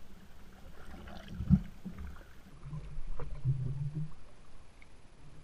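Canoe out on the lake: water lapping and swishing against the hull as it is paddled, with a low thump about one and a half seconds in.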